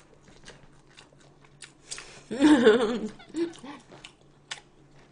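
Close-up eating sounds: soft chewing and wet mouth clicks, with a short hummed vocal sound of wavering pitch, made with the mouth full, a little over two seconds in.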